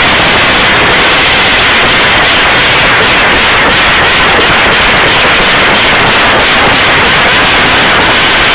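Suzuki GSX motorcycle engine revved hard and held on its rev limiter. The recording is overloaded, so it comes out as a steady, harsh, distorted crackle.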